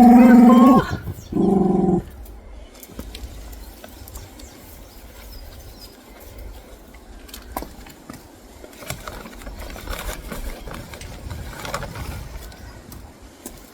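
A pet's drawn-out cry, held at one pitch, at the start and again shorter at about two seconds in, as it complains about a hurt paw. After that come faint rustling and small clicks.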